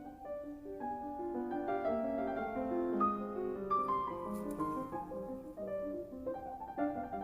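Background piano music: a gentle melody over chords, with many short notes.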